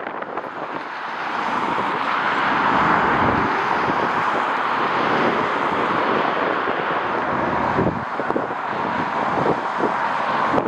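Jet airliner engines running with a steady rushing roar that swells over the first couple of seconds and then holds, while strong wind buffets the microphone with low thuds a few times.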